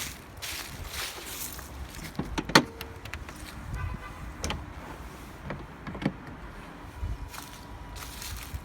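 Scattered handling clicks, knocks and rustles from someone moving about a parked car with its engine still off, one sharp click about two and a half seconds in the loudest.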